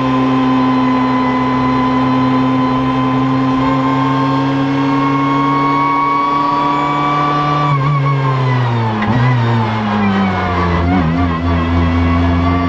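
Racing car engine heard from inside the stripped cockpit, held at high revs on a steady note, then about eight seconds in dropping in pitch with a few short wobbles as the car slows for a tight bend, and picking up again near the end.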